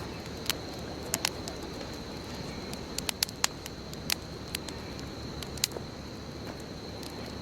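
Wood bonfire burning: a steady low rush of flames with sharp, irregular crackles and pops, several close together about three seconds in. A thin, steady high tone runs underneath.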